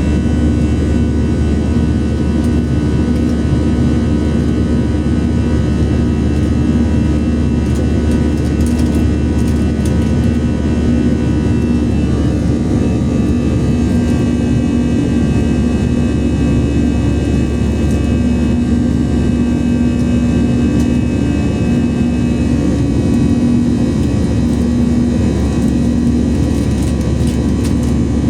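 Steady cabin roar of an Airbus A321 in flight: the CFM56 jet engines and the airflow, with a steady low hum.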